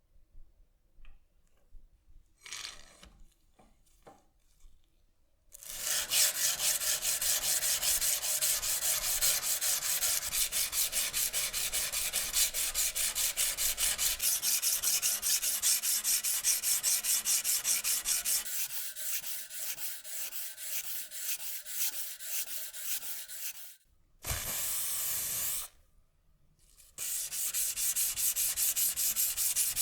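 Abrasive rubbing in quick, even back-and-forth strokes, like hand sanding. It starts a few seconds in after some faint ticks, stops briefly about three quarters of the way through with a short steady hiss, and then resumes.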